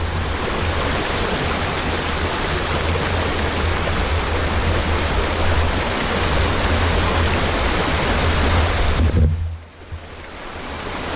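Creek water rushing and spilling steadily, with a low rumble underneath. The sound drops away sharply about nine seconds in and builds back up near the end.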